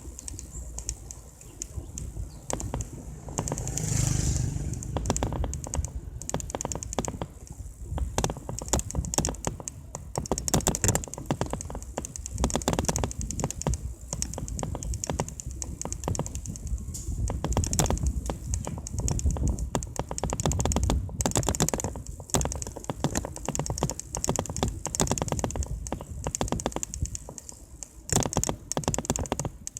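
Mountain bike on the road, a dense run of irregular clicking and rattling over a low rumble of wind on the microphone. A stronger gust of rumble comes about four seconds in.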